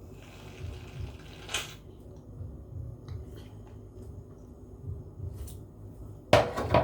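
Faint handling noise of objects being moved about, with light clicks and a short hiss about a second and a half in. A louder rustling burst comes near the end.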